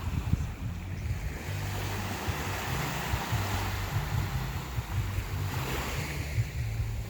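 Ocean surf washing onto the beach, its rush swelling twice, with wind rumbling on the microphone.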